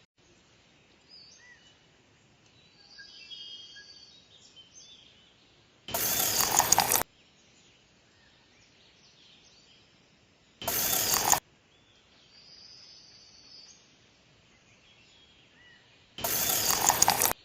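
Three short bursts of loud mechanical noise, each about a second long, starting and stopping abruptly, with faint bird calls between them.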